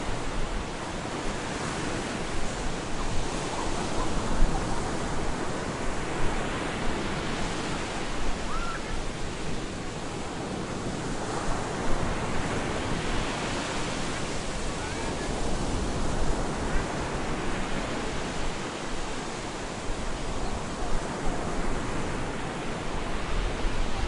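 Stormy sea surf breaking on a beach: a continuous rushing wash of waves that swells and eases as each wave comes in.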